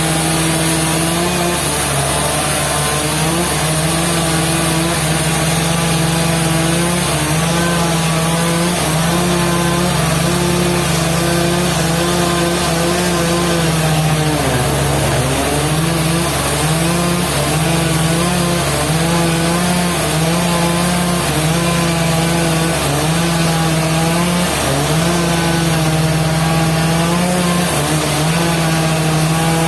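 Sawmill saw running through wood: a steady machine note that keeps sagging in pitch as the saw takes load, with one deep dip about fifteen seconds in.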